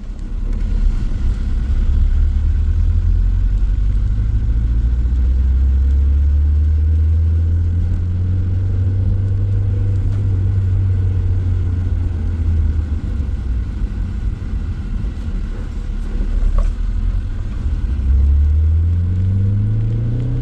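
A motor vehicle's engine running as it drives, a steady low drone. Near the end it revs up, the pitch rising.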